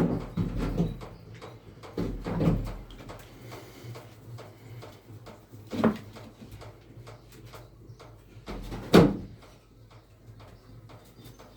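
A few separate knocks and thumps from objects being handled, the loudest about nine seconds in.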